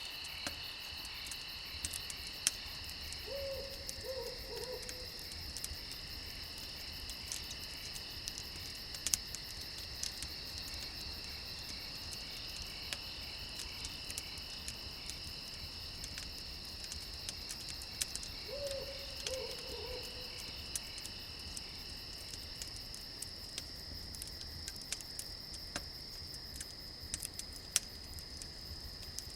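Crickets chirping steadily on two high pitches, with an owl hooting twice, a short call of a few notes about three seconds in and again about two-thirds of the way through. Scattered sharp crackles of a campfire sound throughout.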